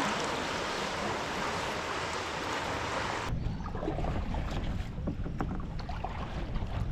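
Steady hiss of moving water and wind while paddling a canoe on a river. About three seconds in it cuts off abruptly to a low, rumbling wind noise on the microphone with scattered light knocks.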